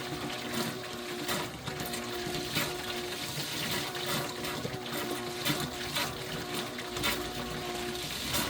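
Small bilge pump running in water: a steady motor hum that drops out and comes back several times, over splashing and trickling water.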